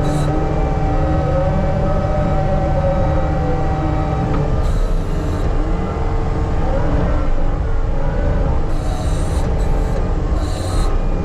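Diesel earthmoving machine running under load, with its engine pitch rising and falling and short high metallic squeals several times.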